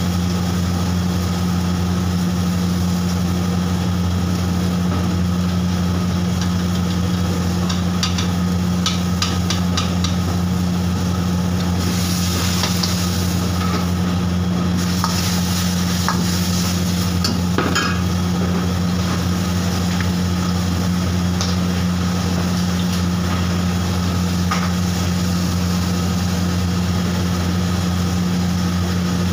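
Sauce sizzling and bubbling in a hot wok over a gas burner, under a loud, steady low hum. A quick run of light metal clicks comes about eight seconds in, and the sizzle turns louder and hissier for a few seconds from about twelve seconds in, as fried chicken pieces go into the sauce.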